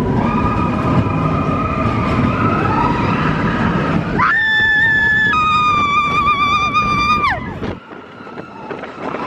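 Roller coaster train rumbling along its track, then riders screaming: one long, high, wavering scream about four seconds in that lasts about three seconds and jumps higher partway through.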